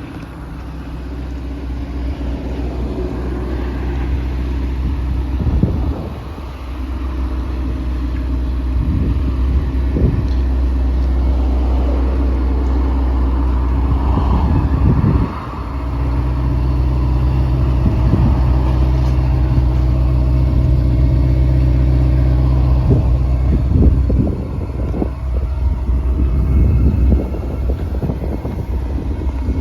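Ferrari Portofino's twin-turbo V8 engine running, a steady low drone that dips briefly in level about six seconds in and again about fifteen seconds in.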